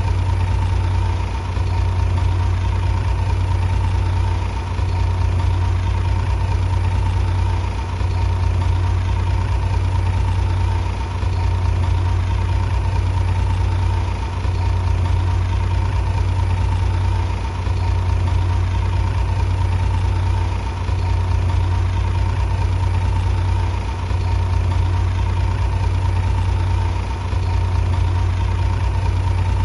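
Bulldozer's diesel engine running steadily with a deep low drone, the loudness dipping slightly about every three seconds.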